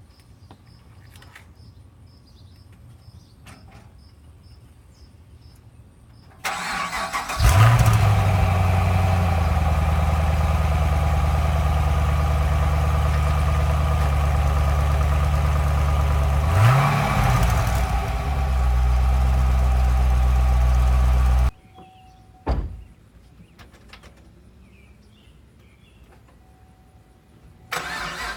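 2011 Chevrolet Camaro SS's LS3 6.2-litre V8 cranked and started about six seconds in, flaring up briefly and settling to a steady idle. Near the middle it is blipped once in a short rev, then it is shut off suddenly; right at the end the starter cranks again. Faint crickets chirp while the engine is off.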